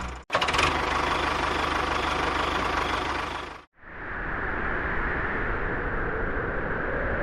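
A motor running steadily, broken by two abrupt cuts, one just after the start and one a little over three seconds in; after the second cut it sounds muffled.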